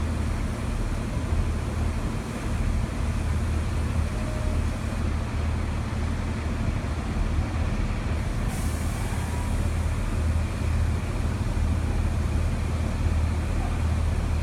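Class 43 HST power car diesel engines running steadily with a low, even hum.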